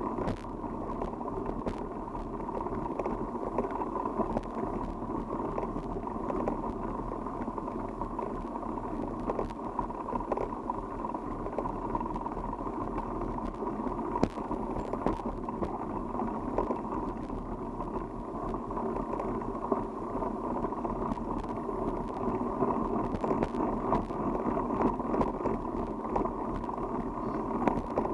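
Steady rushing wind and tyre noise from a bicycle being ridden, with scattered small clicks and rattles.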